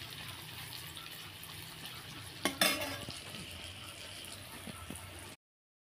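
Tomato and spice masala frying in oil in a pot, a steady sizzle, with a spoon stirring and clinking against the pot about two and a half seconds in. The sound cuts off abruptly near the end.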